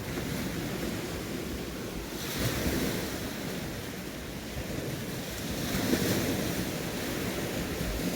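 Sea waves washing onto the shore, surging about two seconds in and again about six seconds in, with wind buffeting the microphone.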